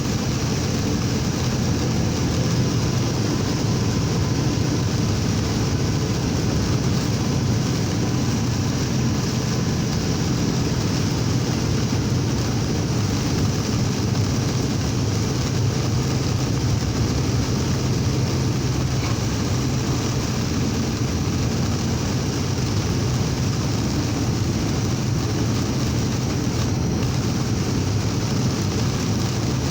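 Semi-truck diesel engine droning steadily at highway speed, heard from inside the cab, under a constant hiss of tyre, rain and wind noise on a wet road.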